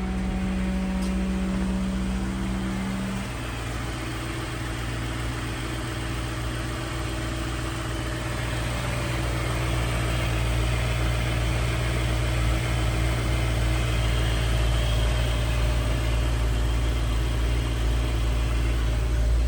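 2004 Ford Thunderbird's 3.9-litre V8 running at idle; its note changes about three seconds in, then holds steady.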